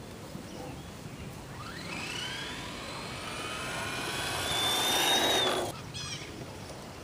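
ECX Torment 2WD RC short-course truck's electric motor and drivetrain whining. The whine climbs in pitch and grows louder as the truck speeds up toward the microphone, then cuts off suddenly near the end.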